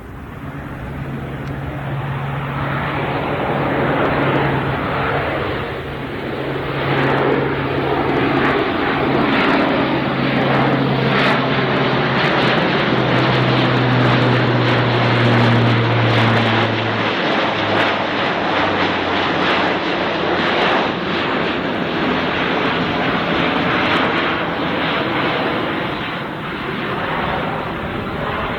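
Airbus A400M Atlas's four TP400 turboprop engines and propellers, loud as the aircraft passes, building up over the first few seconds. A strong propeller hum drops in pitch about two-thirds of the way through as the aircraft goes by, and the sound eases off near the end.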